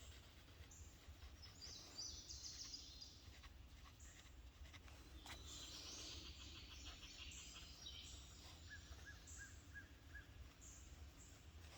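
Faint birdsong in woodland, with a run of five short, evenly spaced call notes about three-quarters of the way through.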